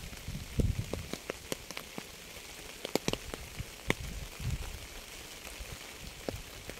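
Rain falling with a steady hiss, with sharp clicks of single drops landing close by, most of them about three seconds in, over irregular dull low thuds.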